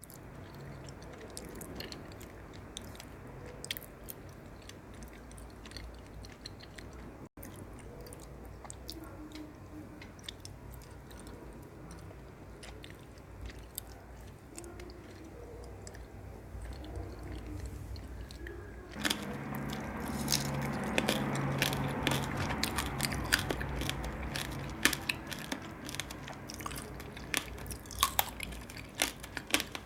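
A person biting and chewing sweets close to the microphone, with many sharp, crunchy clicks. It gets noticeably louder about two-thirds of the way through.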